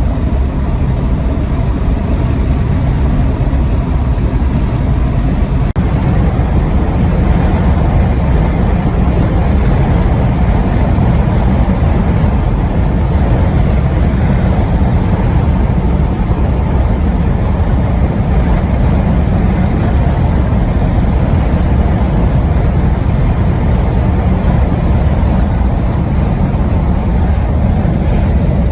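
Steady low rumble of a car on the move, heard from inside the cabin: road and engine noise at a constant speed.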